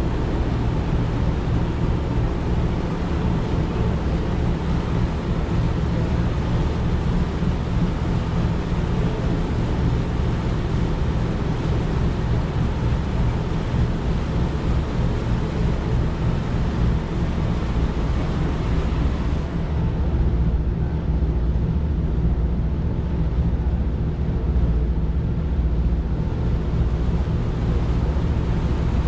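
Cruise boat's engine running steadily, a low hum under a hiss of wind and water. The upper hiss thins out about twenty seconds in while the engine carries on unchanged.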